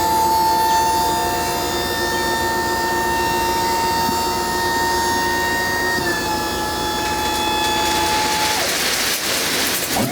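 Tipper truck's hydraulic tipping gear whining steadily as the bed lifts, the pitch stepping down about six seconds in and again near nine seconds. Then a rushing hiss as the load of gravel slides off the bed.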